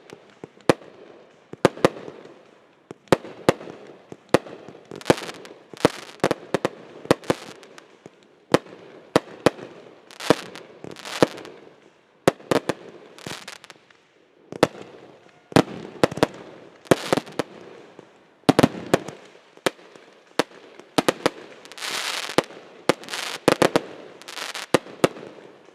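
Consumer fireworks going off in a long run of sharp bangs, often one or two a second, with hissing and crackling between the reports.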